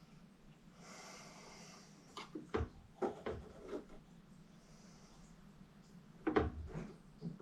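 Light knocks, clatter and rubbing of PVC drain pipe and fittings being handled during gluing, in two bursts: one about two seconds in, another about six seconds in.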